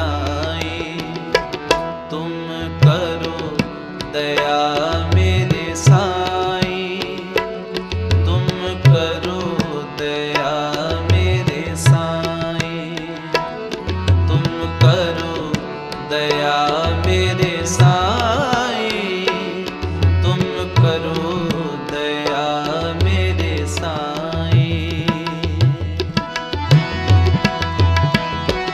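Sikh devotional kirtan music: a voice singing a shabad with tabla accompaniment, the deep bass drum strokes keeping a steady beat.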